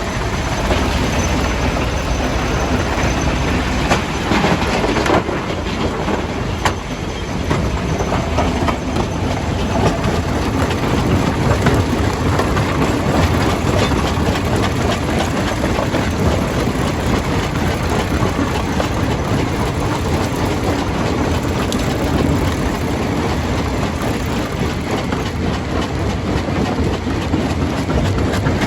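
Stone crusher running under load: a loud, continuous clatter and grinding of rock being broken, dense with knocks and cracks, a few sharper cracks about four to five seconds in.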